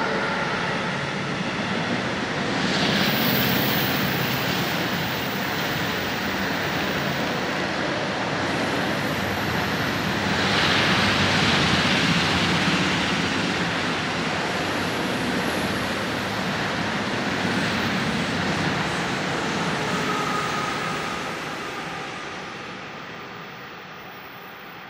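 Rolling-highway freight train, with lorries loaded on low-floor wagons and hauled by ÖBB Vectron electric locomotives, running past with a steady rumble that fades over the last few seconds.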